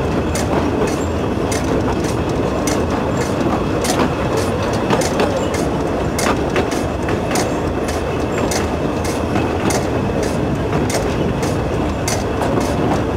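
Narrow-gauge train running along the track: a steady rumble with frequent, irregular clicks of the wheels over the rails.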